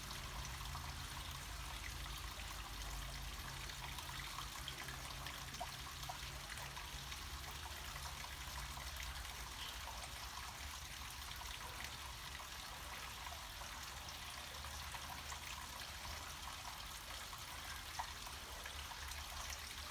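Small stream of water trickling and flowing down a mountainside: a steady, even rush of running water with a low rumble underneath.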